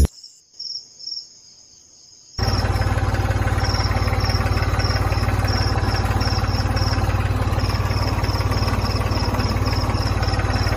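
A loud, steady, engine-like running sound with a fast even pulse, cutting in suddenly a couple of seconds in, over regular high chirps that repeat throughout.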